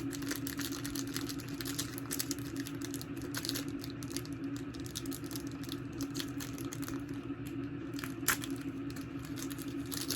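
Packaging crinkling and rustling as it is handled and opened by hand, an irregular run of crackles with a sharper snap near the end, over a steady low hum.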